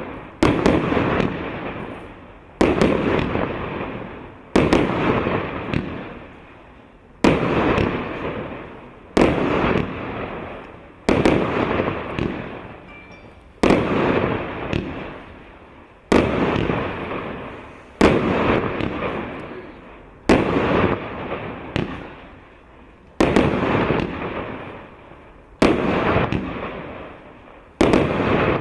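168-shot 1.25-inch consumer fireworks battery (cake) firing, its shells bursting in the air one after another in a steady rhythm about every two seconds, each sharp bang dying away before the next.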